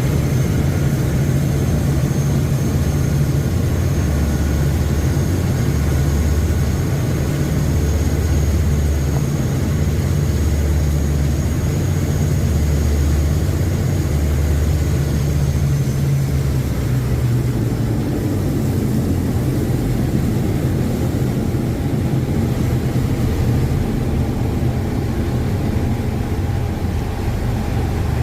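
Passenger riverboat's engines running steadily, heard from on board: a loud, low, even drone with a faint high whine over it that fades out about halfway through.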